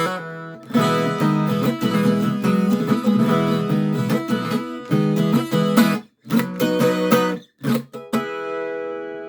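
Viola caipira, the Brazilian ten-string guitar with paired strings, played in quick plucked and strummed chords. It stops short twice near the end and finishes on a single chord left ringing and fading.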